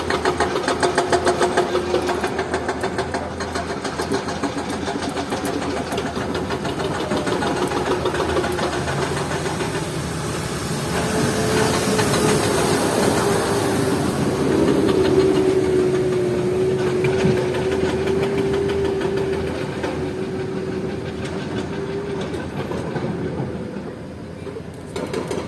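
Komatsu PC200-8 excavator running, its diesel engine pulsing evenly, with a steady whine and a rush of hiss joining in about ten seconds in and the whine dropping out a little after twenty seconds. The sound is presented as the sign of a worn-out, failing hydraulic pump.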